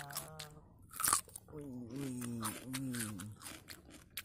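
Someone crunching and chewing raw cucumber close to the microphone, with sharp crunchy bites, the loudest about a second in. A voice makes drawn-out, wavering sounds between the bites.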